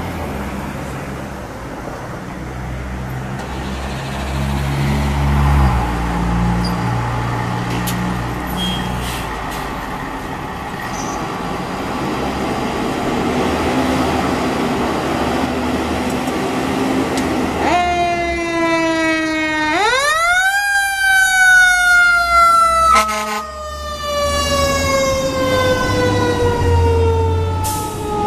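A 2003 E-One Typhoon fire engine's diesel engine pulling away, its pitch stepping up through the gears. About 18 seconds in, its siren comes on: the tone dips, sweeps quickly back up, then slowly winds down. A brief loud burst cuts in partway through the wind-down.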